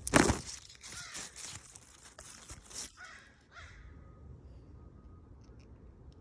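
A bird calling several times in the first three and a half seconds, the first call the loudest, then only faint background.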